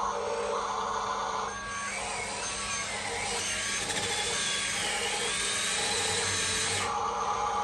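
Small electric motor of an RC dump truck whining, its pitch rising and falling from about a second and a half in until near the end, over steady running noise.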